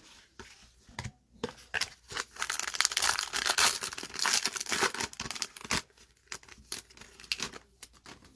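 Baseball card pack wrapper being torn open and crinkled: a dense crackling run of a few seconds in the middle, with scattered sharp clicks before and after.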